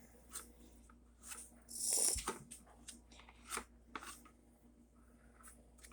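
Light handling noises from work on a model railway car: scattered small clicks and rustles, with one longer scratchy, hissing scrape about two seconds in.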